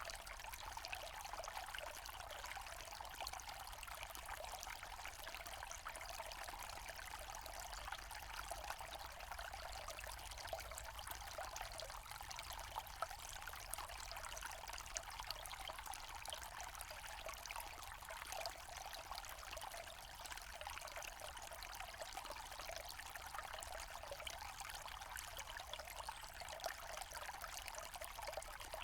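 Small forest stream flowing and trickling steadily, an unbroken hiss of running water.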